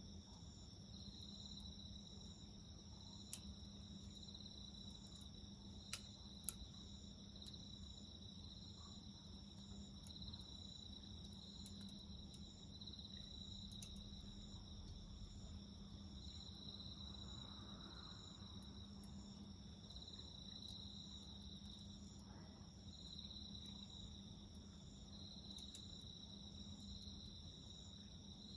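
Faint, steady chirring of insects in a high, pulsing trill. A few sharp pops from a wood fire stand out about three, six and six and a half seconds in.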